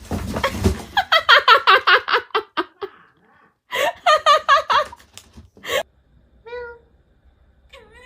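A person laughing hard in rapid ha-ha pulses, in two long bouts, followed near the end by two short wavering high cries.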